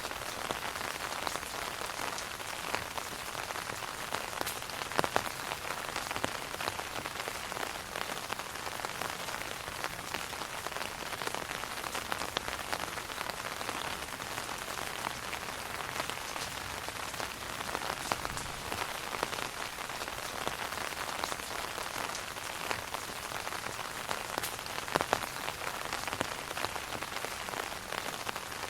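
Rain pattering steadily on an umbrella canopy, heard from beneath: a dense hiss of drops with scattered louder single drops, two of them standing out about five seconds in and near the end.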